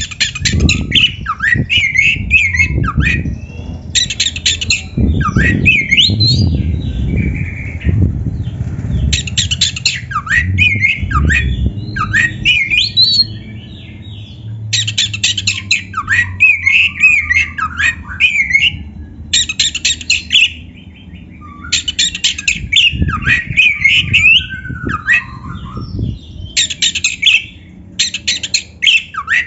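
Oriental magpie-robin (kacer) singing a varied song of sliding whistled notes, broken every few seconds by short bursts of harsh, rasping chatter.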